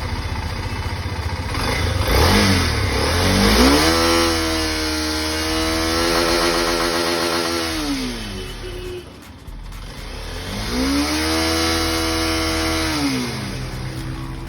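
Motorcycle engine revved up twice, each time climbing in pitch, holding steady for a few seconds, then dropping back toward idle.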